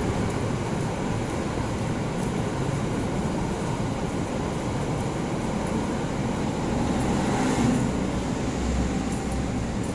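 Passenger train's coaches rolling over the rails, a steady rumble of wheels and running noise.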